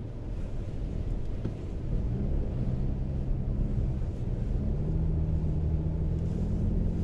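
Low rumble of a car driving, heard from inside the cabin: engine and road noise, with an engine drone that sets in about two seconds in and steps up slightly in pitch a little past the middle.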